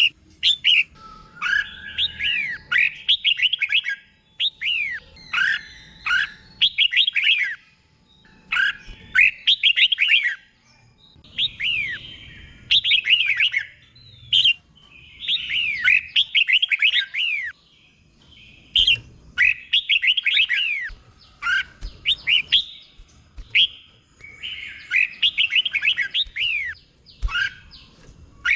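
Red-whiskered bulbul singing: short, bright phrases of quick gliding whistles, repeated one after another with brief pauses between them.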